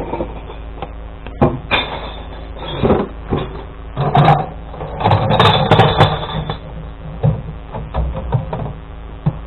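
Glass bottles and jars clattering and knocking in several bursts as a kerbside glass recycling bin is emptied into the collection truck, the longest burst a little past the middle. Under it runs the steady hum of the truck's idling engine.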